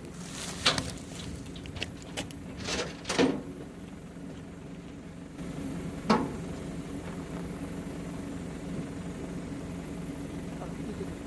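A vehicle engine idling steadily, with several clunks and knocks in the first few seconds and one more about six seconds in.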